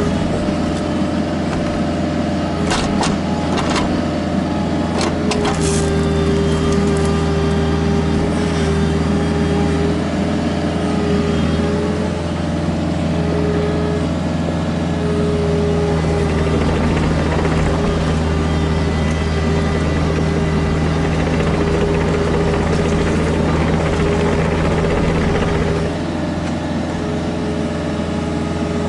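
Kubota KX121-3 mini excavator's diesel engine running steadily under hydraulic load, with several sharp knocks a few seconds in. The engine note steps up about five seconds in and eases off near the end.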